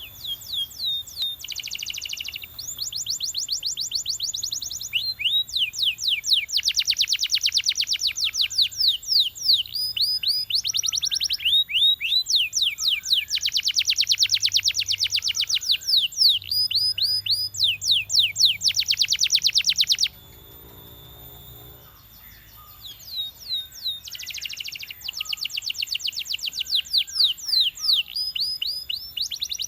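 Belgian canary singing: fast rolling trills and rapid runs of repeated rising chirp notes, high-pitched. The song breaks off about twenty seconds in and starts again some four seconds later.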